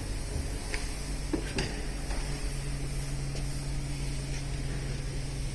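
A few light metallic clinks and taps of parts or tools being handled during an engine strip-down, over a steady low hum.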